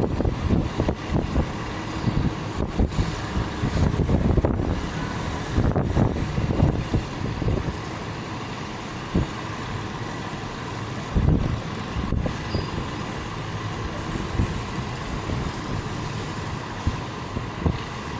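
Dump truck engine running, an uneven low rumble with occasional thuds.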